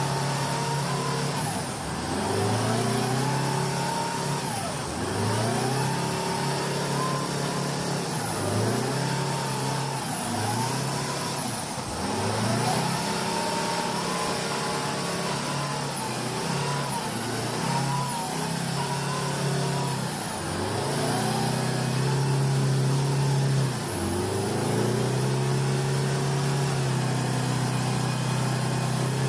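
Heavy truck engine revving up and dropping back over and over, about every two to three seconds, with a faint high whine rising and falling along with it.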